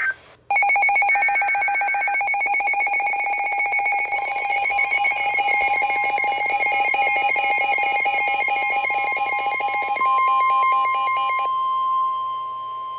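Weather-alert alarm: rapid, pulsing electronic beeping that starts about half a second in and cuts off suddenly at about eleven and a half seconds. A steady single tone comes in under it about four seconds in and carries on alone for the last second and a half. That tone is the NOAA Weather Radio warning alarm tone, signalling a tornado warning about to be read.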